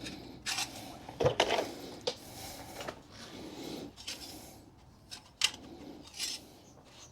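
Irregular clinks, knocks and scraping of metal hand tools and exhaust parts being handled and rubbed, with a sharp click about five seconds in.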